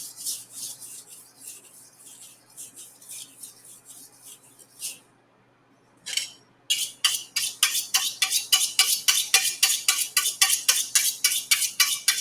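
Steel chef knife blade scraped stroke after stroke across a tri-stone whetstone during sharpening. A run of short strokes is followed, after a pause of about a second, by a louder, faster run at about four strokes a second.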